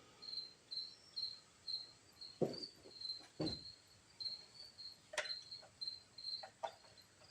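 Cricket chirping steadily, about two short high chirps a second. Two dull knocks come a second apart near the middle, then a sharper click and a few light taps.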